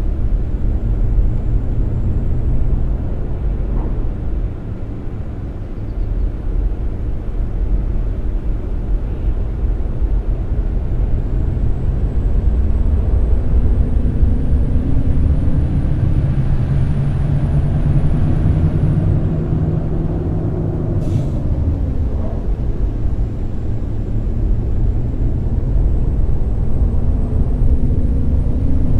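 Scania K420 double-decker bus's six-cylinder diesel engine running under way over a steady low road rumble. The engine pitch climbs for several seconds past the middle, then drops sharply, and a short hiss of air follows about 21 seconds in.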